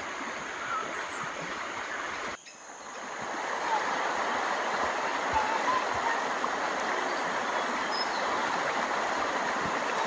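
Running water rushing steadily, with a few faint high chirps over it. The sound cuts out abruptly about two and a half seconds in and fades back up.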